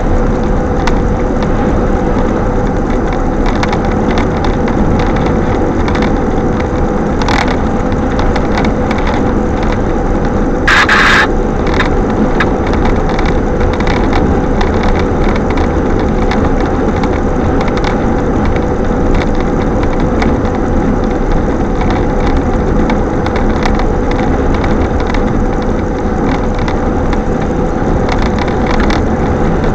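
Strong wind blowing hard and buffeting the microphone in a loud, steady rush, with a brief sharp rattle or clatter about eleven seconds in.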